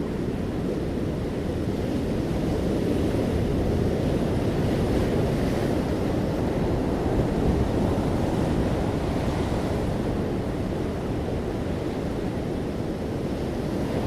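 Ocean waves breaking gently on a shore: a continuous low rushing of surf that swells slightly about five seconds in and eases off toward the end.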